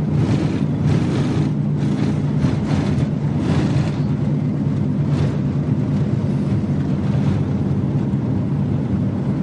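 Motor vehicle engine running steadily, heard from inside the moving vehicle, with road and wind noise and a few brief rushes of noise as it travels along a dirt track.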